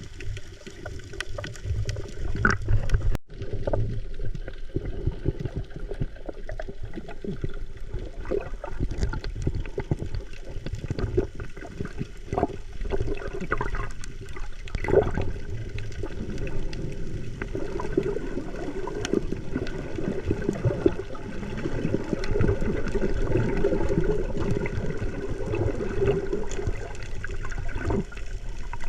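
Water sloshing and gurgling continuously, with many small irregular splashes.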